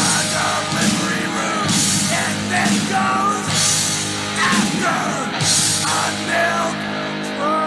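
Hardcore punk band playing from a 1990 tape recording: distorted guitars, bass and drums, with a cymbal crash about every two seconds. Near the end the drums drop out, leaving sustained ringing tones.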